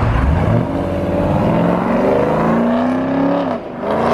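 Chevrolet Camaro engine revving hard as the car pulls away, its pitch climbing for about three seconds. The pitch then falls with a brief drop in level near the end and starts climbing again.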